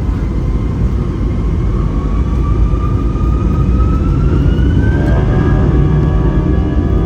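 Airliner jet engines spooling up, heard from inside the cabin: a deep rumble under a whine that rises slowly in pitch as the sound grows louder. About five seconds in, several steady higher tones join the whine.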